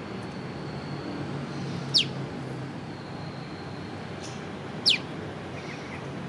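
Prenjak lumut bird giving two sharp 'piw' whistles, each falling steeply in pitch, about three seconds apart, over a steady low background rumble.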